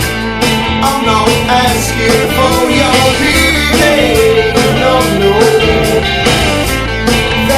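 Rock band music: guitar lines over bass and a steady drum beat.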